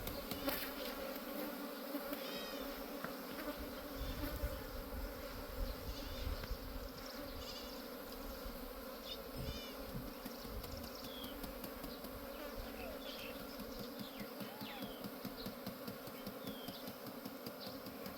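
Steady buzzing of insects, with short high chirps, likely from birds, scattered throughout.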